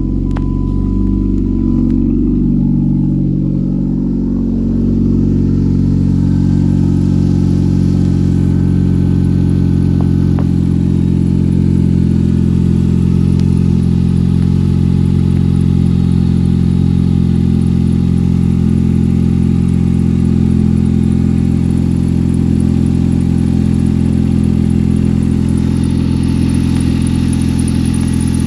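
2011 Jeep Patriot's 2.4-litre four-cylinder engine running at idle, its speed shifting in the first few seconds and then settling into a steady idle.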